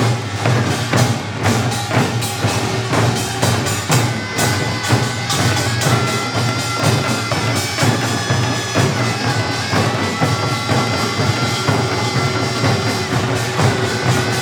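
Korean pungmul percussion ensemble playing a fast, dense rhythm of drum and gong strikes, with a taepyeongso (Korean shawm) playing a reedy melody of long held notes over it.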